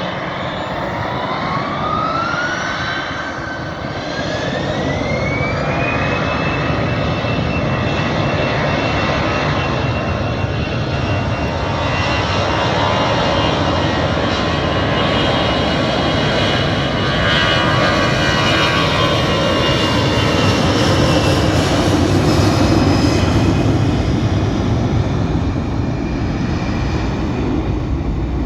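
Airbus A320 twin jet engines spooling up to takeoff thrust: a whine climbs in pitch over the first few seconds, then holds steady over a loud engine roar that builds and peaks past the middle.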